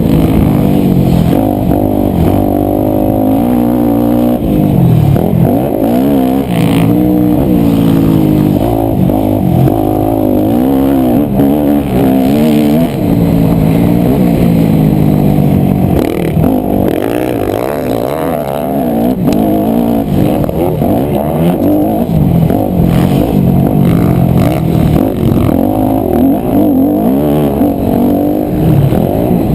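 The engine of a 250cc four-stroke single-cylinder motocross bike, heard close up, revving hard and falling back again and again as it runs round the track, with the pitch climbing and dropping every few seconds. A few brief clattering knocks come through in places.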